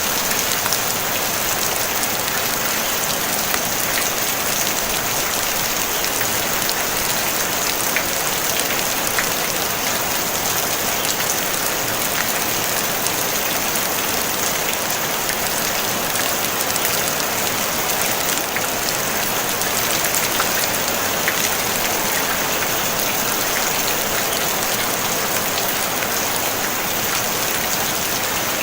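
Steady rain falling on a tin roof, an even hiss dotted with the light ticks of single drops.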